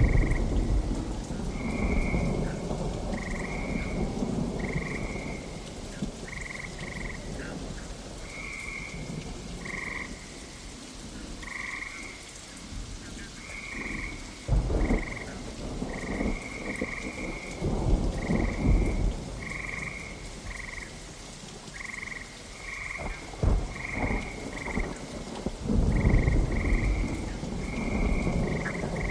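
Steady rain with rolls of thunder rumbling several times, and frogs croaking in short calls about once a second.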